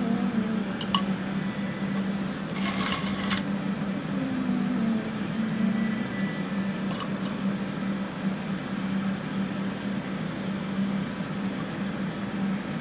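Several electric fans running at once to draw off soldering fumes: a steady rushing noise with a low hum. A short hiss comes about two and a half seconds in, and there are a few light clicks.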